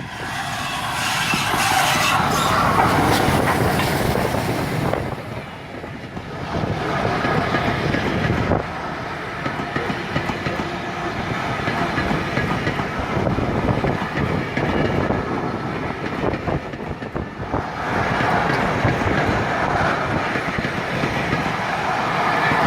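A steam-hauled train running past close by, its wheels clattering over the rail joints in a continuous rolling rumble. It is loudest in the first few seconds, eases off briefly, then swells again near the end.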